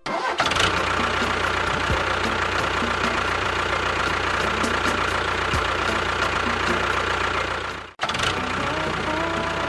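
Small motor of a miniature DIY bulldozer model running steadily with a high whine, dropping out for a moment about eight seconds in and then running on.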